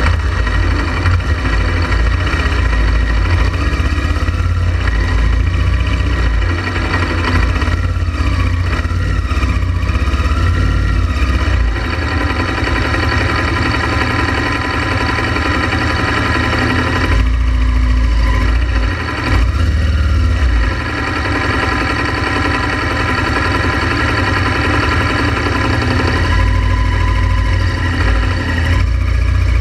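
Honda Transalp XL700V motorcycle's V-twin engine running steadily as the bike is ridden, with small changes in engine speed over a heavy low rumble.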